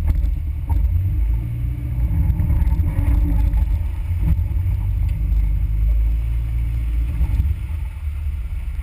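Suzuki Samurai engine running, a low steady rumble that eases a little near the end.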